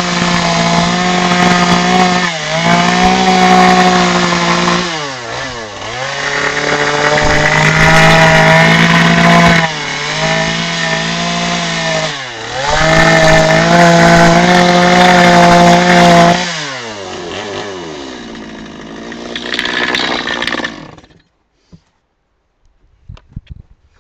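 Chainsaw carving wood, running at full throttle in long stretches with brief dips as the throttle is eased four times. About 16 seconds in it drops to idle, then cuts off about 21 seconds in, leaving a few faint clicks.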